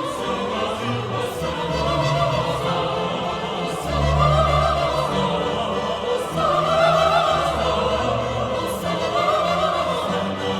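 Choir and orchestra performing sacred classical-style music: the sung lines waver and are held over long sustained low notes.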